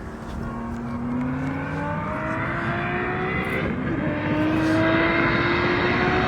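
Turbocharged BMW inline-six engines of an M4 and a single-turbo 135i at full throttle in a roll race, the engine note climbing slowly and steadily in pitch and getting louder. The climb breaks briefly about three and a half seconds in, then carries on rising.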